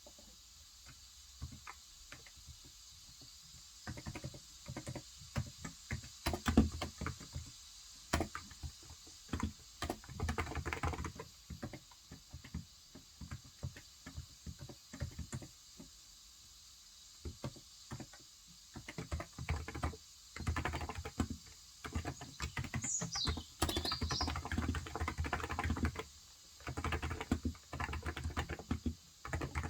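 Typing on a COX Endeavor electrostatic capacitive tenkeyless keyboard with 35 g switches: quick runs of soft key clicks broken by pauses. A short bird call falls in pitch about 23 seconds in.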